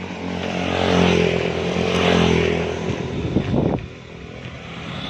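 A motor vehicle's engine running close by, growing louder over the first couple of seconds and then easing off.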